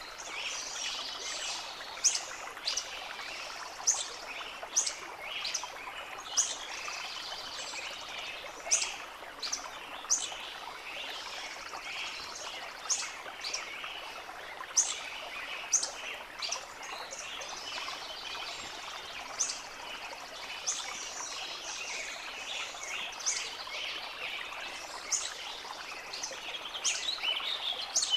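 Birds chirping in short, high notes, roughly one a second, over a steady rush of running water.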